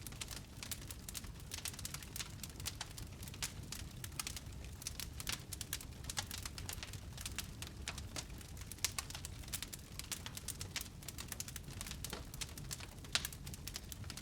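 Wood fire crackling steadily, with many sharp pops and snaps over a low rumble of burning.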